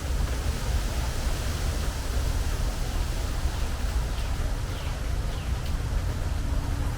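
Steady rain falling on a metal porch roof: a constant hiss with a deep, even rumble underneath.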